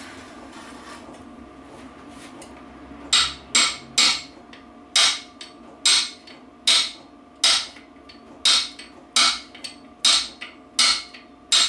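Hammer striking a brass drift to drive a part into a BSA B25 gearbox: about a dozen sharp metallic taps at a little under two a second, starting about three seconds in.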